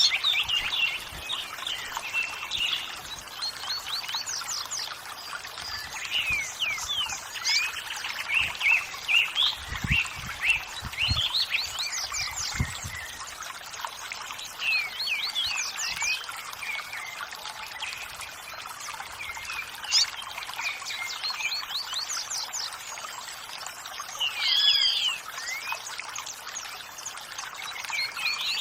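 Many small birds chirping and singing in quick, varied calls over a steady rush of running water.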